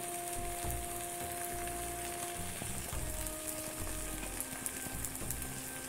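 Bread omelette frying in butter in a nonstick pan: a steady sizzle with fine crackling as the turned side crisps.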